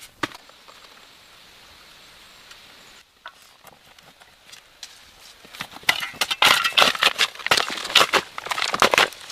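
Dry wood cracking and knocking: a few scattered sharp cracks, then a quick run of crackles and knocks from a little past halfway to the end, after a quiet start.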